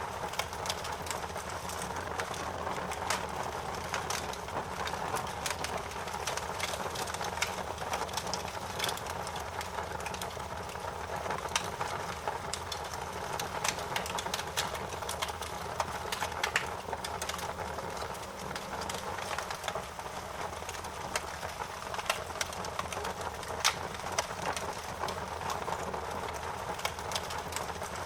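Fire crackling: irregular sharp pops and snaps over a steady hiss.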